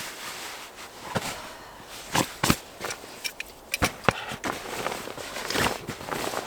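Rustling of clothing and bedding as someone gets dressed, with a few sharp clicks and knocks in the middle.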